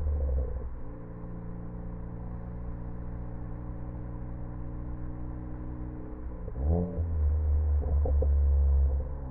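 Ford Focus ST engine running an aggressive exhaust-crackle tune. It falls from a loud rumble to a steady idle within the first second, then is revved about six and a half seconds in and held at a loud low rumble with a few brief pops. It drops back to idle just before the end.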